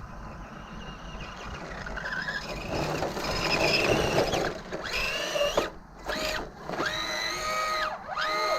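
Brushed electric motor of an RC10T RC truck whining in repeated throttle bursts, each rising, holding and falling away. The motor is spinning up freely, which the driver puts down either to the clutch gear slipping or to the wheels slipping in mud.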